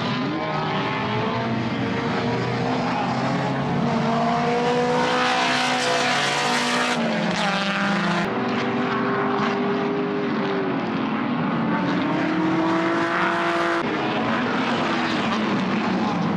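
Race car engines running on the circuit, several at once, their pitch climbing and dropping with sudden jumps as they shift gears and slow for corners.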